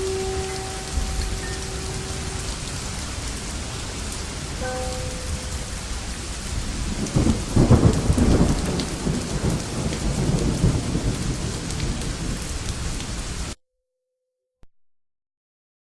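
Steady rain falling, with a roll of thunder about seven seconds in. A few soft held musical notes sound in the first seconds, and the sound cuts off abruptly near the end.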